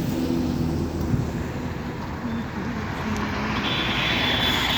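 A vehicle engine running with a steady low rumble, with a hiss that grows stronger and becomes a loud, steady high hiss near the end.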